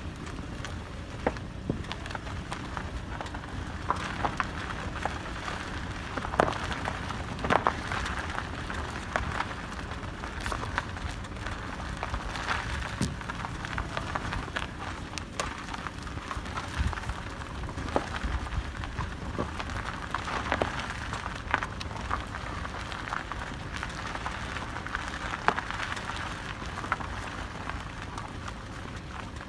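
Toyota Corolla E150 driving on an uneven road: steady road noise with irregular sharp, ringing knocks from the suspension or running gear, a knock that comes only over bumps and whose cause the owner cannot find.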